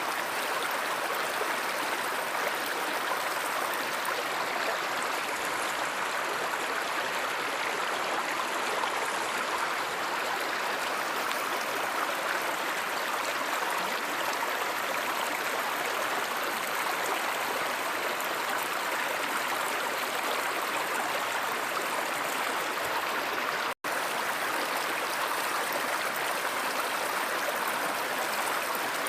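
Stream water flowing steadily: an even rush of running water with no distinct splashes. The sound cuts out for an instant about five seconds before the end.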